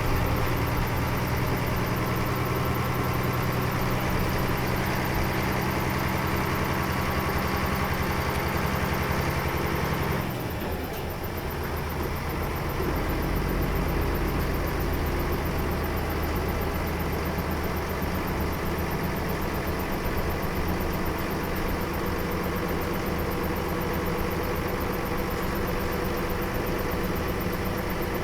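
Nissan Diesel UA452 city bus's diesel engine running under way, heard from inside the bus. About ten seconds in, the engine note drops off abruptly, then settles into a lower, steady note.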